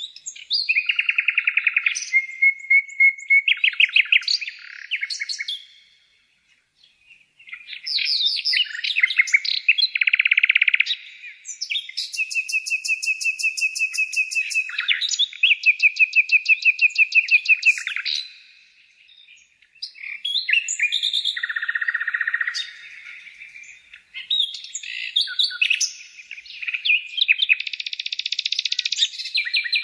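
Lovebirds chirping in fast strings of sharp, high trills and squeaks, with brief pauses about six seconds in and again near nineteen seconds.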